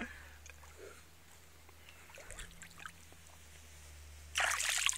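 Mostly quiet, with a faint trickle of water and a few small ticks, then a short splash of water for under a second near the end.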